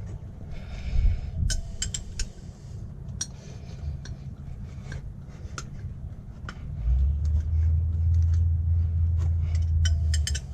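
Metal spanner clinking against a bolt and engine parts while a tight bolt is worked loose: scattered sharp clinks, several in quick succession near the end. A low rumble joins in about seven seconds in.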